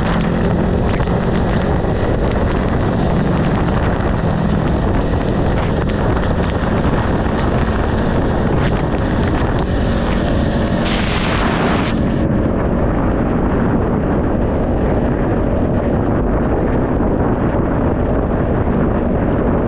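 Heavy wind rush on the microphone of a Kawasaki Ninja 400 riding in the rain, with the bike's parallel-twin engine running steadily underneath. About eleven seconds in there is a brief louder rush, after which the sound turns duller.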